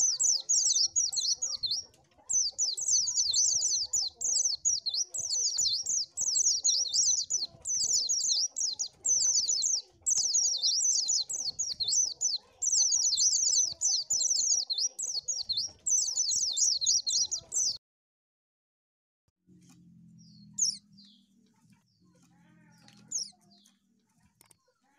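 White-eye (pleci) singing a rapid, continuous twittering song of high chirps, with a couple of short pauses. The song cuts off abruptly near the end, leaving a faint low hum and a few scattered chirps.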